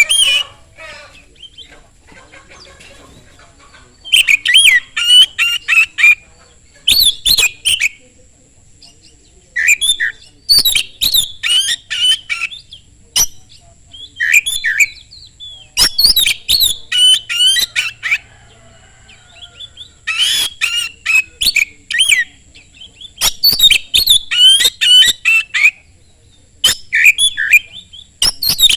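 Oriental magpie-robin (kacer) singing loudly in fast phrases of rapidly changing whistles and chirps. The phrases come in bursts of one to two and a half seconds with short pauses between them.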